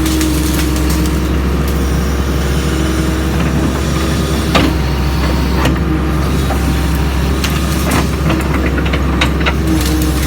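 Doosan DX140 excavator's diesel engine running steadily, with scattered sharp knocks and cracks about halfway through and more near the end.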